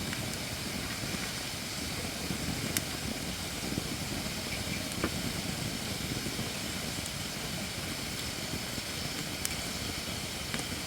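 Campfire of Japanese white oak logs, not yet fully seasoned, burning with a steady low rumble and hiss and a few sharp crackles.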